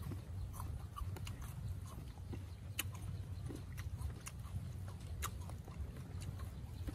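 Close-up chewing of crisp raw jicama, with a few short sharp crunches spread through it, over a steady low rumble.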